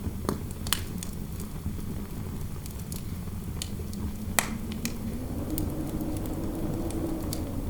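Fireplace crackling, with sharp pops scattered through it, the loudest about four seconds in, over a steady low rumble of interior wind. A faint howl of wind rises in pitch and falls back between five and seven seconds in.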